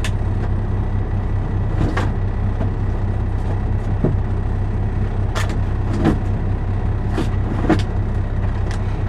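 Steady low hum of a semi truck's engine idling, heard inside the cab, with a few light clicks and knocks scattered through it.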